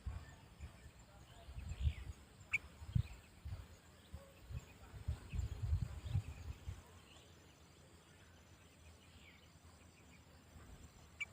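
Faint, short chirps from a sooty-headed bulbul (kutilang), scattered throughout. The loudest sound is a run of low, rumbling thumps over the first seven seconds, and there are two sharp clicks, one about two and a half seconds in and one near the end.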